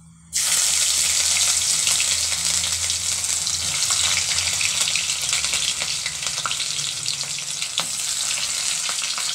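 Chopped ginger, garlic and green chillies dropped into hot oil with mustard seeds, bursting into a loud sizzle about a third of a second in. The oil keeps frying steadily.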